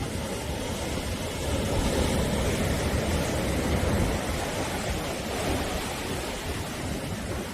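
Sea waves washing onto the shore: a continuous rushing surf that swells a little a few seconds in.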